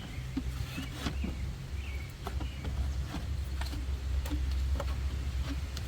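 Light clicks and taps of a plastic air cleaner box being handled and pressed into place on a truck engine, a handful of scattered ticks over a low steady rumble.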